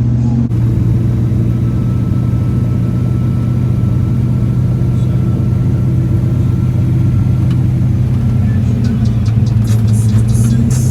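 Pickup truck engine idling steadily with a loud, deep exhaust drone.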